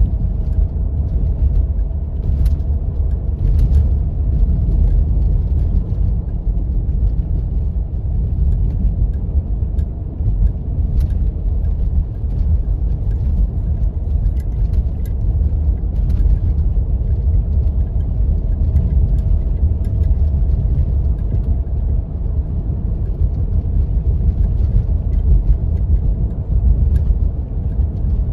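A 4x4 driving on snow-covered roads: a steady low rumble of engine and tyres, with scattered light clicks and ticks.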